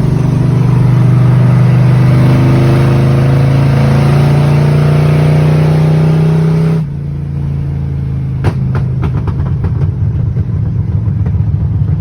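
Big-block 429 V8 of a 1970 Ford Galaxie 500 running loud on open headers with no exhaust pipes while driving, its pitch rising slowly as it pulls. About seven seconds in it drops abruptly to a lower, steadier run with a few clicks.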